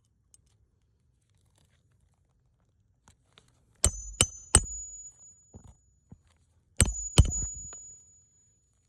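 Hammer driving a roofing nail into an asphalt shingle: three quick strikes, a pause of about two seconds, then two more, each group leaving a high metallic ring.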